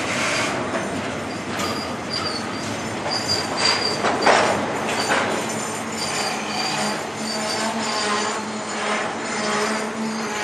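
Florida East Coast Railway double-stack container cars rolling past on the rails with wheel and brake squeal as the train brakes. A high squeal rings through the first half, with a brief louder clatter about four seconds in, then gives way to a lower steady whine.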